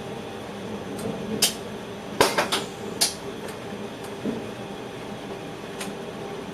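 Train running, heard inside the driver's cab: a steady running hum with a scatter of sharp clacks and knocks, bunched in a quick cluster a little past two seconds in.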